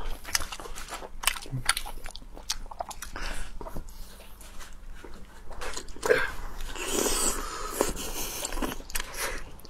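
Close-miked eating: two people biting, gnawing and chewing tough, rubbery shellfish meat pulled from the shell, with many small wet clicks and smacks. About six seconds in the eating noise grows denser and louder for a couple of seconds.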